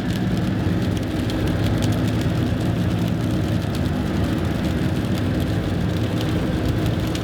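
Plow truck driving with its salt spreader running, heard from inside the cab: a steady engine and road drone with faint scattered ticks.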